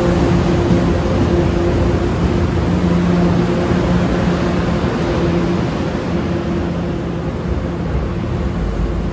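MBTA commuter rail train beside the platform, its diesel running with a steady low hum over a rumble, easing off a little in the second half.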